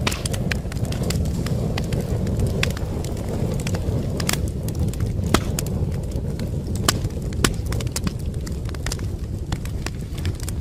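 Wood fire in a fireplace crackling: irregular sharp pops and snaps, a few louder than the rest, over a steady low rumble of burning.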